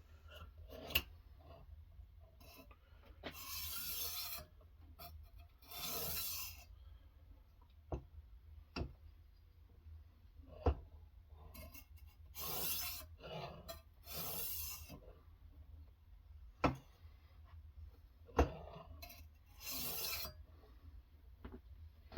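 A sharpening stone drawn along a knife's edge in light rasping strokes, about five strokes of roughly a second each, spaced a few seconds apart. This is the deburring pass that removes or weakens the burr. Sharp clicks come between the strokes as the stone or the knife is handled.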